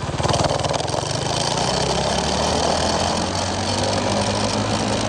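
Minibike's small single-cylinder engine, fitted with a 265 hot cam and 22-pound valve springs, running. It picks up speed right at the start and then holds a steady note.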